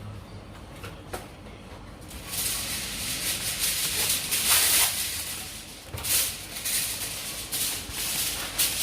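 Herbs for a chili paste frying in hot oil in a pan, sizzling and spattering with irregular crackling pops; the sizzle swells up about two seconds in.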